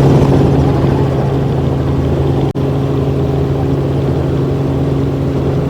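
Helicopter running with a steady engine and rotor drone, a constant low hum under a noisy wash, cutting out for an instant about two and a half seconds in.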